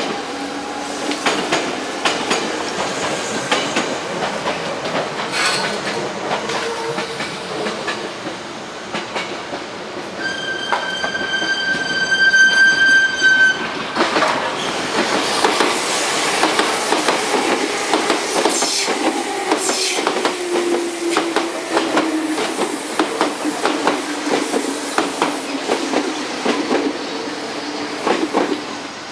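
A train running through a level crossing, its wheels clacking rapidly over the rail joints. About a third of the way in, a horn sounds one steady note for about three seconds.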